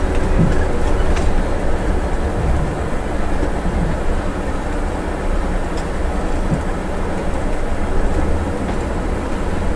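Scania heavy diesel vehicle running downhill on a mountain road: a steady engine and road rumble.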